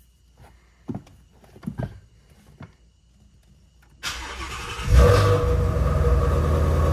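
A few small clicks, then the 2017 Shelby GT350R's 5.2-litre flat-plane-crank V8 is cranked about four seconds in. It catches with a loud flare a second later and settles into a steady idle.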